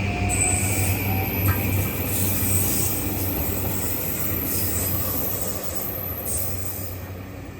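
Train moving along the station platform, a steady rumble with high-pitched wheel squeals coming and going; the sound fades away near the end.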